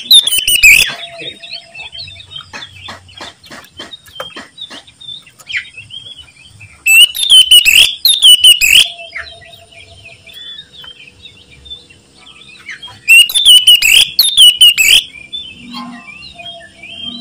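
Oriental magpie-robin (kacer) singing loudly in three vigorous bursts about six seconds apart, with quieter chirps and notes between them.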